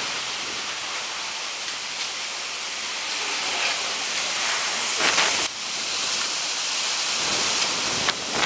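Floodwater rushing in a steady roar of water, with a brief louder burst about five seconds in.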